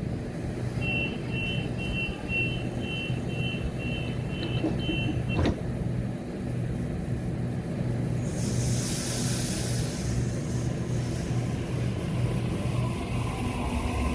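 Electric suburban train standing at the platform, humming steadily. Over the first five seconds about ten quick high beeps of its door-closing warning sound, then a single knock as the doors shut, and about eight seconds in a short hiss of air.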